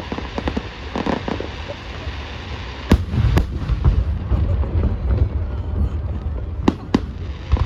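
Fireworks exploding: a steady rumble of distant bursts with sharp crackling pops, a heavy boom about three seconds in, and more sharp cracks near the end.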